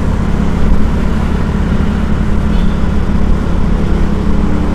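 Busy road traffic: a steady, loud rumble of passing cars and motorcycles.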